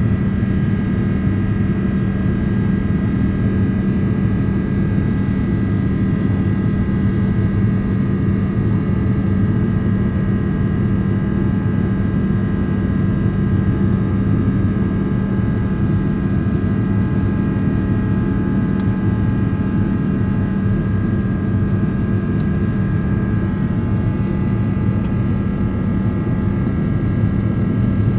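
Airliner jet engines running at steady thrust, heard inside the passenger cabin: a loud, even rumble with several steady high whining tones over it.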